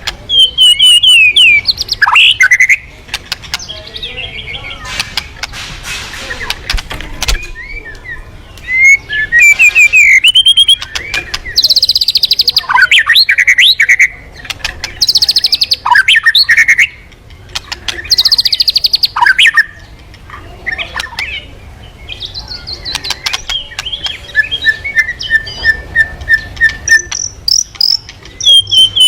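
Murai songbird singing energetically, a varied run of loud whistled phrases, sharp chirps and fast high trills, with a quick series of repeated notes near the end.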